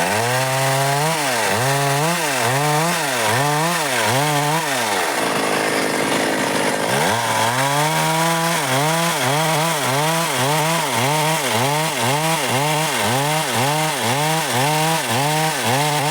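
Stihl MS 382 two-stroke chainsaw cutting dry wood, its engine note dipping and recovering about twice a second as the chain bites. For about two seconds in the middle it runs higher and even, then the dipping resumes.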